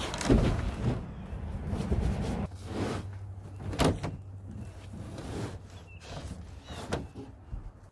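Scraping, rustling and a few sharp knocks as a carpet is pulled and pressed into place over a plywood platform in a truck bed, over a steady low hum.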